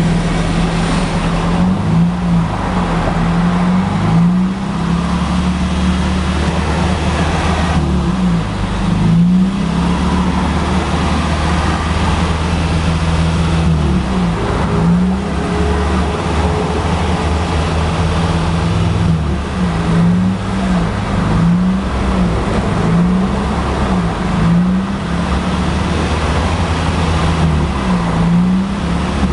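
Toyota Aqua NHP10's 1.5-litre four-cylinder engine running through a KRnoble Ellisse aftermarket exhaust muffler, its pitch repeatedly dipping and rising over a steady low hum as the engine speed changes.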